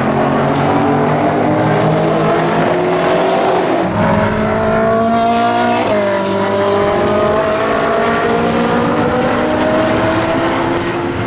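1,000 hp Audi RS6 DTM Avant's twin-turbo V8 accelerating hard, its pitch climbing through the gears. Gear shifts about four and six seconds in drop the pitch before it climbs again.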